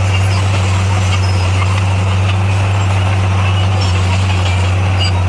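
D58A bulldozer's diesel engine running with a steady low drone.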